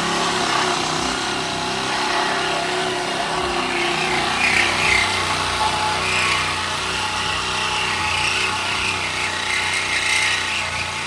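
Reciprocating saw (Sawzall) running steadily as it cuts.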